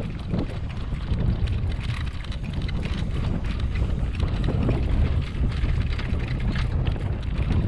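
Wind buffeting the microphone: a steady low rumble with scattered short rattles.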